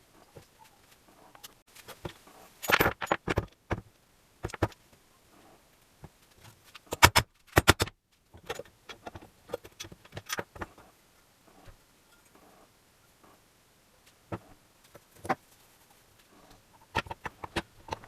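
Metal tools and small parts clinking and knocking as they are handled, in irregular clusters of sharp clicks, loudest a few seconds in and again about halfway through.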